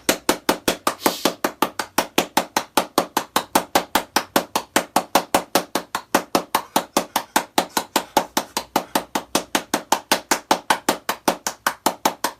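A rapid, evenly spaced train of sharp knocking impacts, about five a second, keeping a steady beat throughout.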